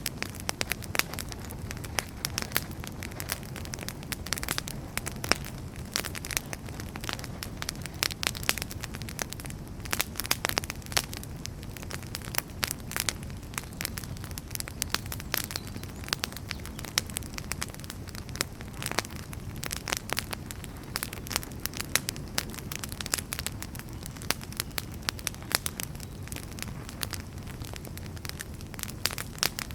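Wood fire burning in a fireplace: a steady low rush of flame with frequent irregular crackles and pops from the burning firewood.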